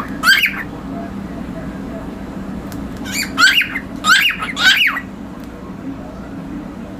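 Cockatiel giving short, rising squawking chirps: one near the start, then a quick run of about four about three seconds in. A steady low hum runs underneath.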